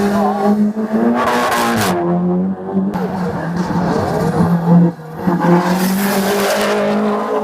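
Hill-climb race car engine running hard at high revs. Its note drops briefly about two seconds in and again about five seconds in, then picks up again.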